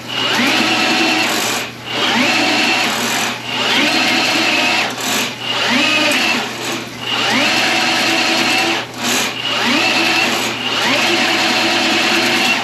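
Milwaukee M18 sectional drain machine running in forward, spinning its 7/8-inch cable into the drain line. It runs in repeated spells of about a second and a half with brief stops between them, each restart with a rising whine.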